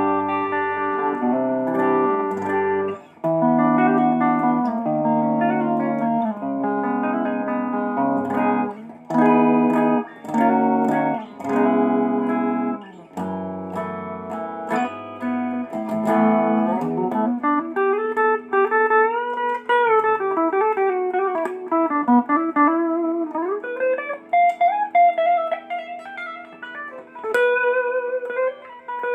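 Legend Les Paul-style electric guitar being played, strummed chords changing about once a second, then, about seventeen seconds in, a single-note lead line with string bends and vibrato.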